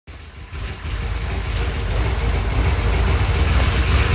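Vehicle engine running with a rapid, pulsing low rumble, the sound of an exhaust leak, growing steadily louder.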